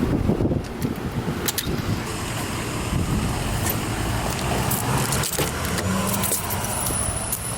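Keys jangling with scattered clicks over the steady low rumble of a car.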